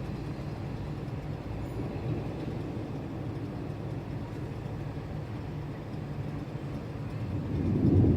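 Steady low rumble of rain with vehicle traffic, swelling louder near the end as something passes close.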